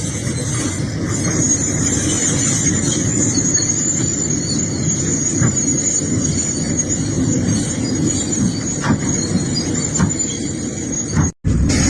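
Excavator working: a steady mechanical rumble with a continuous high-pitched squeal over it. The sound cuts out for a split second near the end.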